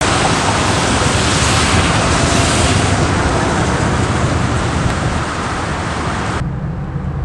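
Steady hiss of heavy rain that starts abruptly; a little over six seconds in, the high part cuts off and a lower rumble carries on.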